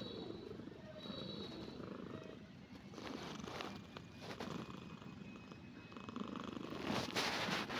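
Himalayan cat purring steadily in a fast low rumble, with a few soft clicks, growing louder near the end.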